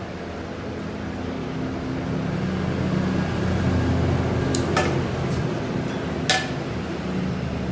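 A workshop machine running steadily with a low hum that swells and eases. It is cut by three sharp metallic clinks in the second half, the last one the loudest.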